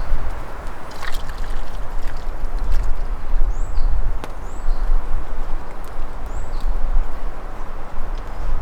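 Strong wind buffeting the microphone, a low rumble that swells and drops in gusts. A few short, high, falling chirps and a few sharp clicks sound over it.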